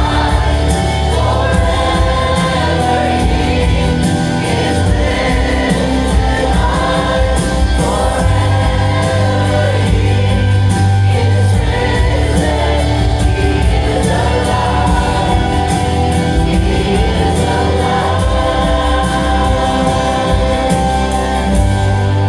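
Church worship music: a choir and congregation singing a gospel song over a band with sustained bass, steady and loud throughout.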